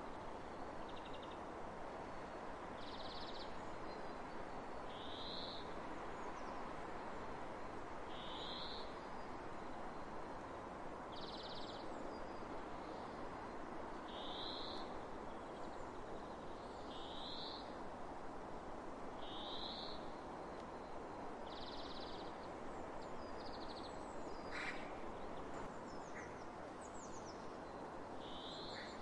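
A bird calling over and over, a short high note roughly every two to three seconds, about ten times, some notes buzzy, over a steady hiss of wind. A single brief tick about 25 seconds in.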